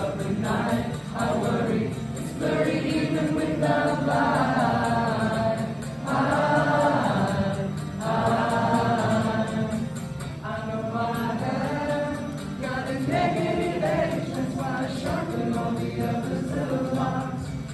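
Live rock band playing a mellow song, with several voices singing together in long sustained phrases over the accompaniment.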